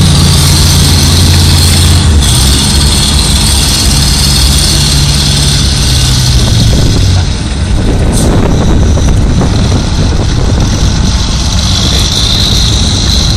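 1955 Ford 850 tractor engine running hard under load, pulling the sled, with a strong steady drone. About seven seconds in the note drops off and turns rougher as the pull winds down.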